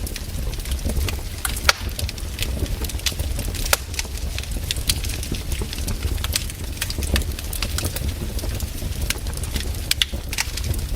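Wood fire in a fireplace crackling, with frequent irregular sharp pops and snaps over a low, steady rumble.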